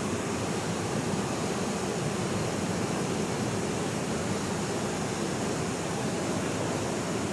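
A waterfall rushing steadily, an even wash of falling water with no breaks.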